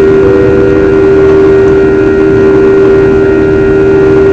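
Jet airliner cabin noise in flight: a loud, steady drone of the engines and airflow with a strong constant hum.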